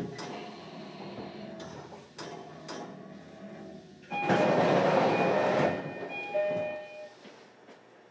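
Inside a JR Kyushu 305 series electric train car, the running noise dies away as the train comes to a stop. About four seconds in, a loud hiss of air lasts about a second and a half, followed by a few short steady tones, and then the car falls quiet.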